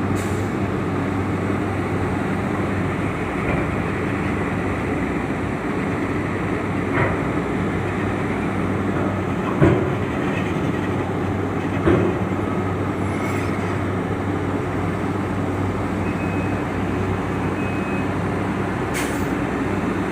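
Steady drone of heavy diesel engines with a low hum, broken by three short clunks in the middle.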